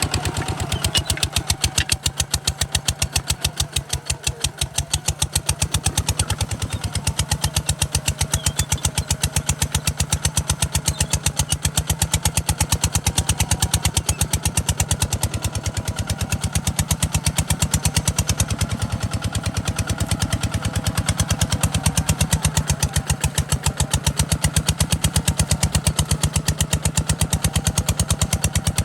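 Kubota RT140 DI single-cylinder diesel engine running steadily, with a fast, even chug of firing pulses.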